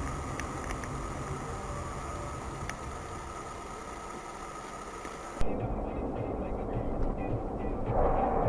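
Steady vehicle running and road noise picked up by a dashcam. About five seconds in it cuts suddenly to a duller, louder recording of vehicle noise.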